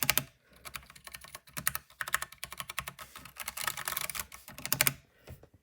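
Ducky mechanical keyboard with brown tactile switches and freshly fitted keycaps being typed on as a sound test: a fast, uneven clatter of keystrokes that stops about five seconds in.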